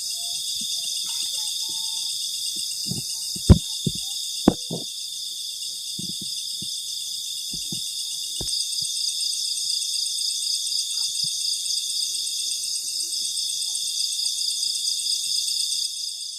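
Night insects, crickets among them, trilling in a steady high-pitched chorus. A few short sharp knocks sound over it, the loudest about three and a half and four and a half seconds in.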